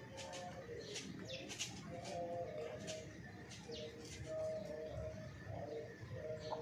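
Birds calling: quick, high chirps repeating throughout, over low, held cooing or clucking notes that come and go.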